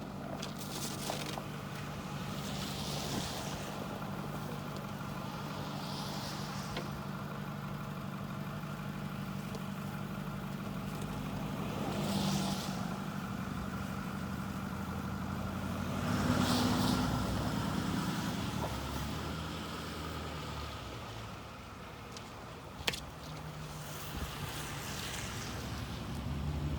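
Road traffic: a steady low engine hum with vehicles passing every few seconds, each swelling and fading as a hiss. A single sharp click comes about 23 seconds in.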